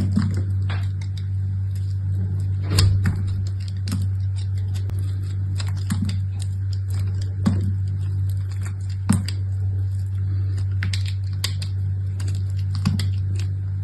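Soap packaging being handled and opened: irregular small clicks, taps and crinkles, a few sharper, over a steady low hum.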